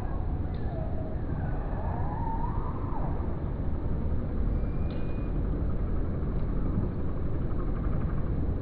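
Steady low outdoor rumble, with a faint wavering whistle-like call rising and falling about two seconds in and a few faint clicks.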